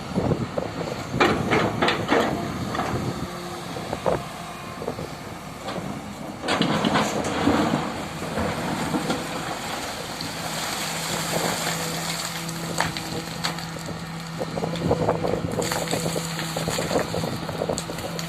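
Poclain excavator at work digging out earth and rock, with crunching and knocks in two clusters early on and near a third of the way through. Its engine hum settles into a steady run for the second half.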